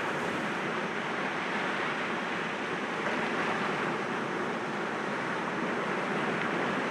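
Sea waves washing against rocks, a steady surf noise with no single breaking wave standing out.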